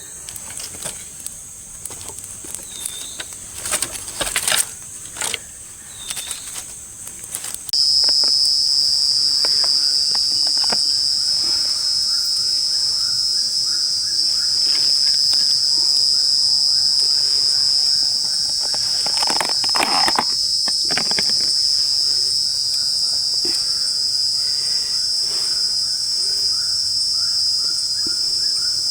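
Quiet crackling and clicks for the first few seconds, then about eight seconds in a loud, steady, high-pitched drone of night insects starts abruptly and carries on, with a short clatter about twenty seconds in.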